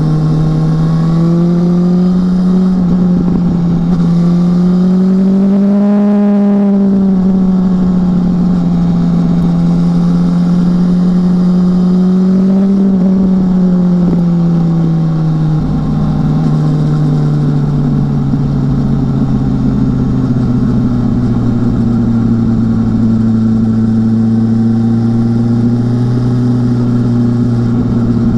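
2018 BMW S1000R's inline-four engine running under way, its pitch rising and falling gently twice, then dropping to a lower steady note about halfway through.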